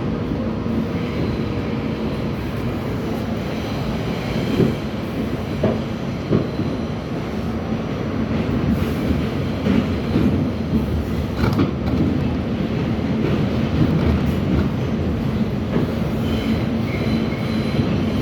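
New York City Subway R68 train running, a steady rumble of the cars with sharp wheel clacks over rail joints now and then and a faint wheel squeal near the end.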